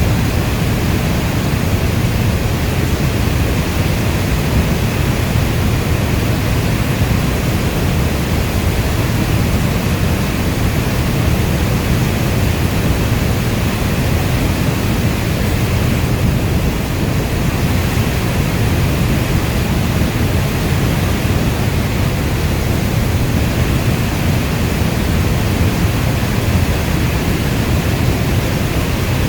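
Steady rainstorm: a dense, even wash of rain, heaviest in the low end, with no separate drops or thunderclaps standing out.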